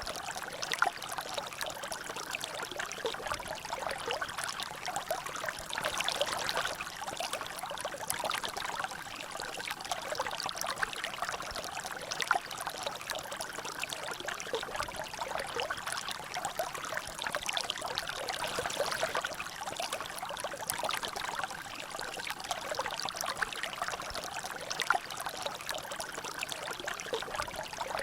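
Water trickling and dripping steadily into a small natural drainage, a continuous dense patter of small splashes with no breaks.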